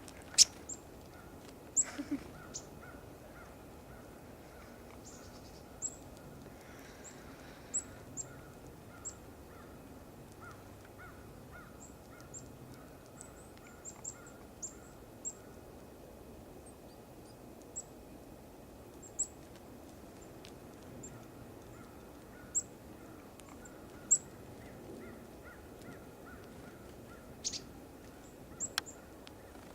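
Small songbirds giving short, sharp, high-pitched chip calls, scattered one every second or two.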